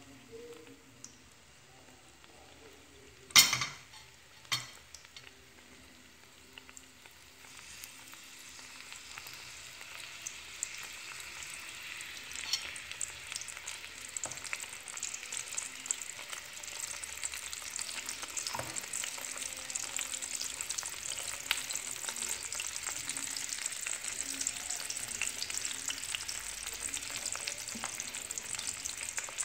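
Egg omelette with squash blossoms frying in pork lard in a pan: a sizzle with fine crackling that builds up after about seven seconds and keeps getting louder. Two sharp knocks come about three and four and a half seconds in.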